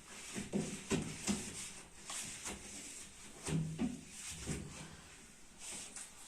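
Several knocks and clunks of fridge drawers and shelves being handled, in a cluster near the start and another around the middle.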